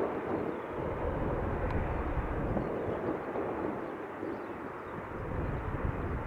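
Jet airliner engines heard at an airport, a steady rumbling noise with no clear whine or change in pitch.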